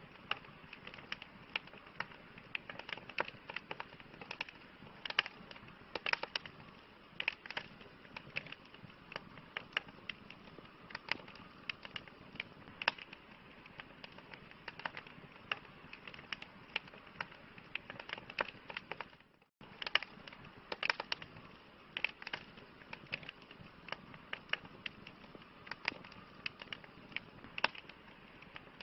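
Campfire crackling: burning wood giving frequent, irregular sharp pops and snaps over a steady soft hiss. The sound cuts out for an instant about two-thirds of the way through, then carries on.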